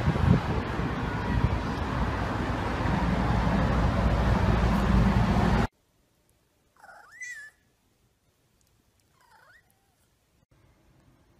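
Loud steady noise, heavy in the low end, that cuts off suddenly about five and a half seconds in. A cat then meows twice, the second meow fainter.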